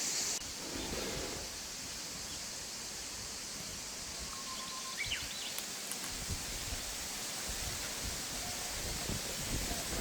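Countryside ambience: a steady hiss of rustling and wind noise, with a few faint short bird chirps about halfway through and low gusty rumbles in the second half. A high insect-like buzz cuts off right at the start.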